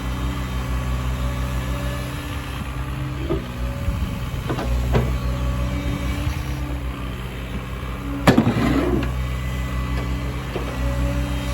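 Diesel engine of a JCB 55Z-1 excavator running steadily, with a few sharp knocks and one loud clank about eight seconds in.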